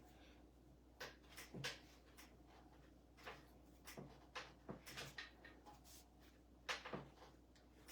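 Bread dough being kneaded by hand on a countertop: faint, scattered knocks and taps, with the strongest pair near the end.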